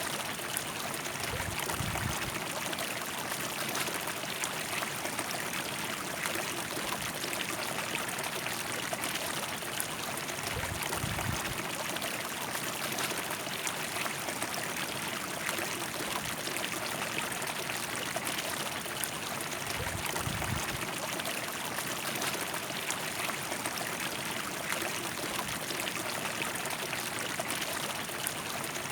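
River water flowing steadily: an even rush of water with trickling. A brief low rumble sounds under it about every ten seconds, three times.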